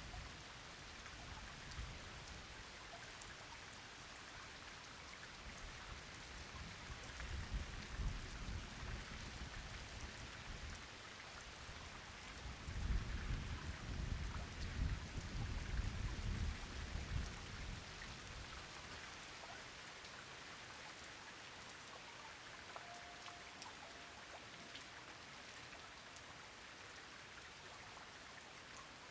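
Steady rain pattering down, with distant thunder rumbling low twice: once about a quarter of the way in, and again, louder and longer, near the middle.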